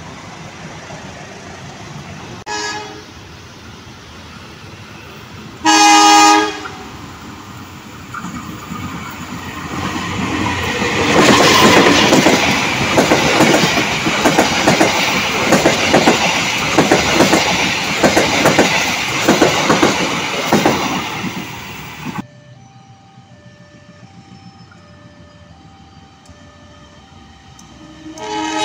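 Passenger trains passing at close range. There is a short horn toot, then a longer horn blast, and then a train rumbles past with its wheels clacking rapidly over the rail joints. After an abrupt cut, a faint two-tone warning signal beeps back and forth, and a diesel locomotive's horn starts sounding at the very end.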